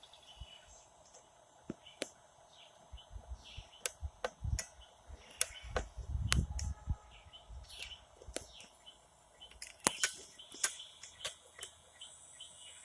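Outdoor ambience with birds chirping, scattered sharp clicks and knocks, and a low rumble about six seconds in.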